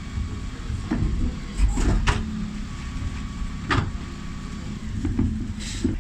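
Dennis Elite 6 bin lorry running steadily while its Terberg OmniDEKA bin lift works, with a series of sharp metallic knocks and clanks from the lift and bins.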